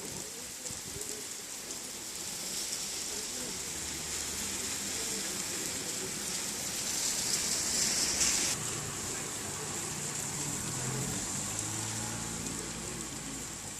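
Steady rain falling, a continuous hiss of drops on surfaces, swelling louder for a second or two and cutting off sharply about eight and a half seconds in. A low rumble runs underneath through the second half.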